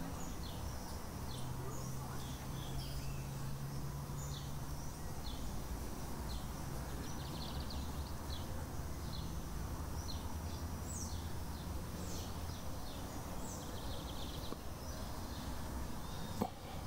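Birds chirping: many short, high calls scattered throughout, over a steady low background rumble. A single sharp click comes near the end.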